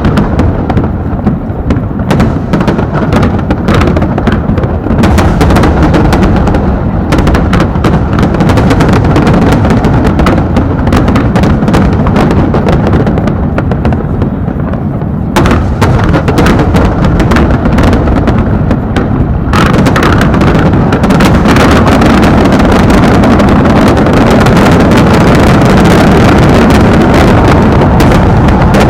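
Fireworks display with a dense, nearly continuous barrage of aerial shell bursts, very loud. The bursts grow heavier about halfway through and again about two-thirds through.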